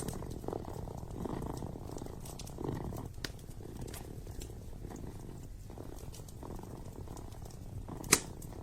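A kitten purring close up, a steady low rumble that swells and eases in slow pulses. Light fireplace crackles tick over it, with one sharp loud crack near the end.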